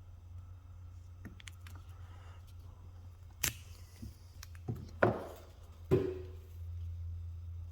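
A handful of sharp clicks and light knocks, as of small hard objects being handled and set down, over a steady low hum. The last knock, about six seconds in, rings briefly.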